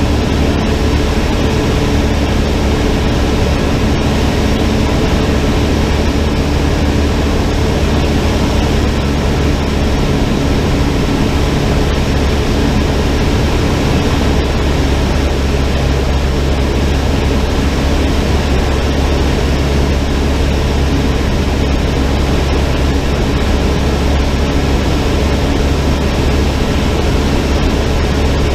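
Cessna 152's four-cylinder engine and propeller running steadily at constant power, a low, even drone under a broad rushing noise.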